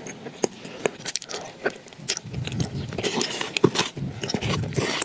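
Close-miked wet chewing of a mouthful of chocolate spread, with many sharp mouth clicks. From about two seconds in, a spoon scrapes inside the plastic tub.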